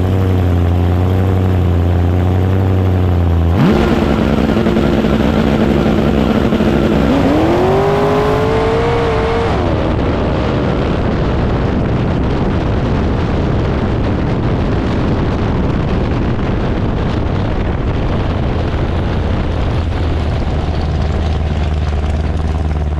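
Twin-supercharged drag car engine idling at the start line, then going to full throttle about three and a half seconds in for a run down the strip, with a rising whine a few seconds into the run. Near the end it settles back to a low steady running sound as the car slows.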